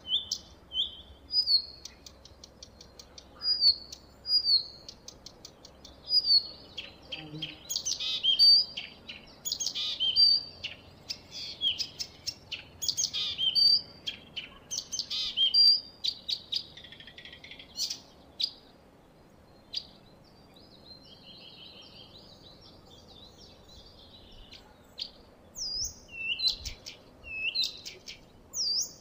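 Reed warbler singing: a long, varied run of chirps, harsh chattering notes and short whistles, often repeated in quick series, thinning out to a few scattered notes for a while about two-thirds of the way through before picking up again.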